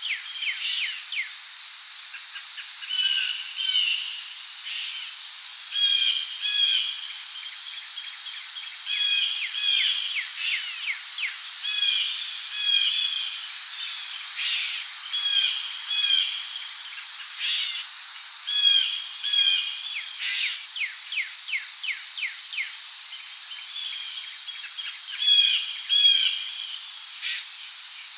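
Rainforest ambience: a steady high insect drone, such as crickets, under birds calling in short repeated phrases, often in pairs, with quick chirps and a few sharp clicks.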